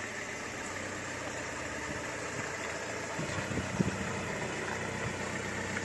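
Camper van engine running as the van comes down a steep road, with a single thump a little under four seconds in.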